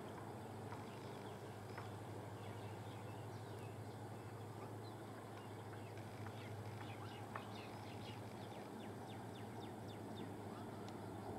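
Faint open-air ambience: many short, quick bird chirps over a low steady hum, the chirps thickest in the second half.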